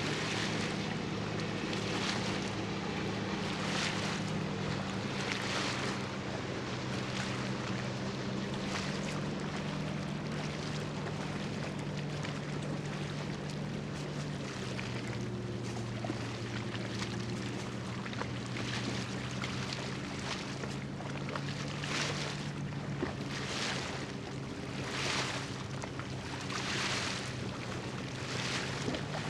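Anchored cargo ship's engine droning in a low, steady hum that steps in pitch a couple of times, with a soft swishing every second or two.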